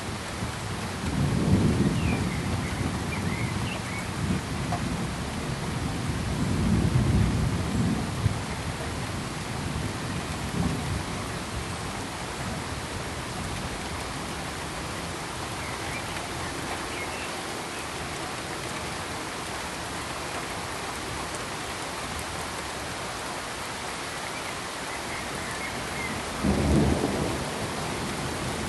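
Steady, even hiss of pink noise or rain, with low rolls of distant thunder rumbling about a second in, again around six to eight seconds in, and once more near the end.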